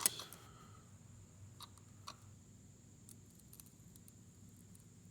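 A sharp metallic click at the start, then a few faint light clicks about a second and a half and two seconds in, over a low steady hum.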